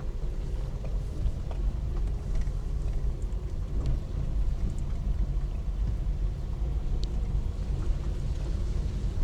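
Steady low rumble of a road vehicle, with a few faint clicks.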